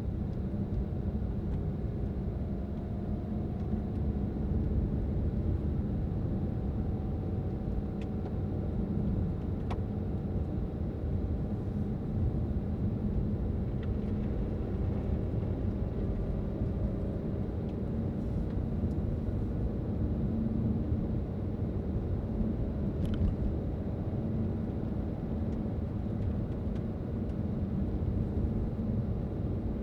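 Steady low rumble of a car driving along a road: engine and tyre noise, with a faint engine note drifting slightly in pitch early on and a few light ticks.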